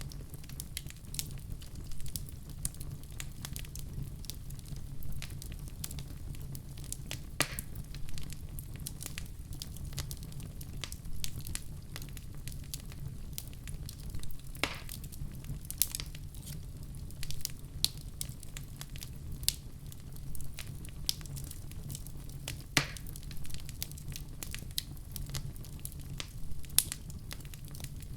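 Fireplace fire crackling steadily over a low rumble of flames, with frequent small snaps and a few louder pops.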